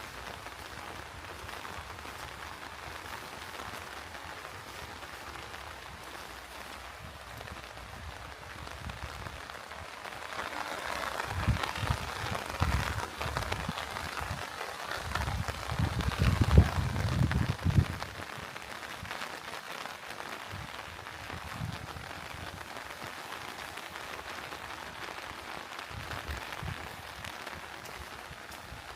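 Steady rain falling, with a pattering hiss. It grows louder for several seconds in the middle, with a run of low thuds.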